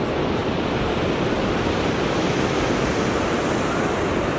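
Steady rush of ocean surf breaking on the shore, with wind on the microphone.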